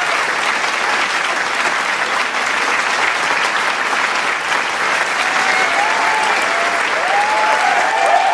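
Large crowd applauding steadily, dense clapping with a few cheers and whoops rising over it from about five seconds in.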